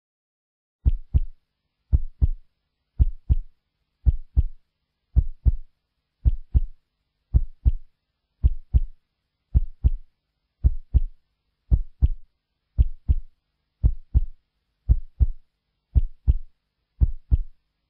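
Heartbeat sound effect: a steady lub-dub of paired low thumps, about one beat a second, starting about a second in.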